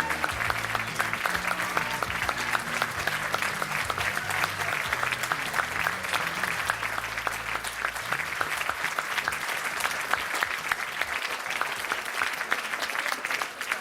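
Theatre audience applauding steadily, with the low notes of background music underneath that fade out about eight seconds in.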